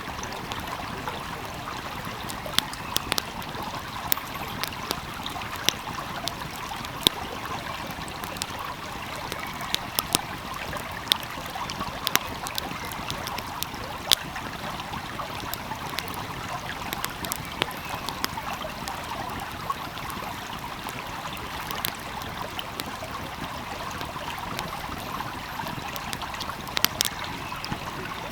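A small stream flowing steadily, with a wood fire crackling over it in sharp, irregular pops.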